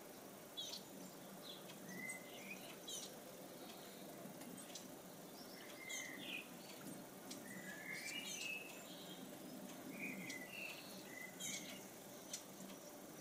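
Small songbirds chirping in short, scattered calls, some sweeping, about every second or two, over a steady low trickle of a table fountain's water.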